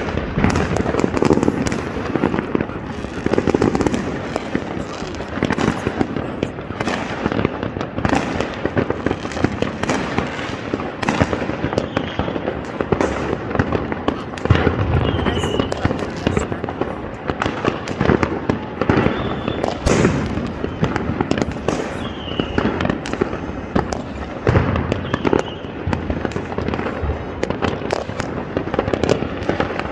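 Many fireworks going off at once across a city: a dense, unbroken barrage of bangs and crackling, with a few short whistles.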